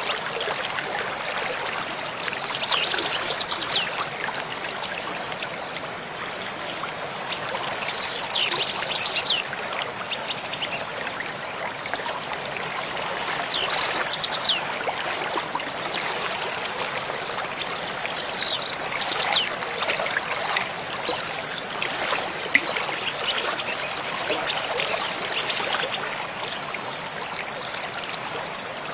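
A mountain stream flowing steadily, with a songbird singing short, fast trilling phrases high in pitch, four times about five seconds apart, and fainter bird notes afterwards.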